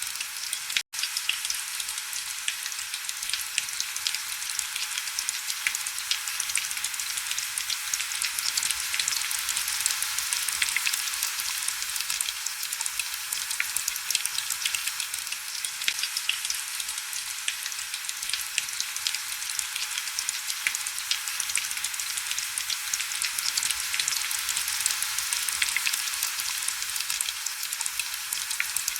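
Heavy rain falling on window glass: a steady hiss dense with the crackle of small drops, with little low rumble. The sound cuts out for a split second about a second in.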